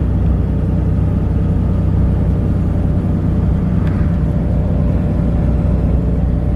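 Steady engine and tyre noise of a car driving along a road, heard from inside the cabin as an even low rumble.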